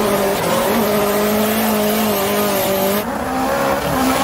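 Drift car engine held at high, fairly steady revs, heard from inside the cockpit over a loud rush of tyre and wind noise. About three seconds in, the sound cuts abruptly to another car's engine.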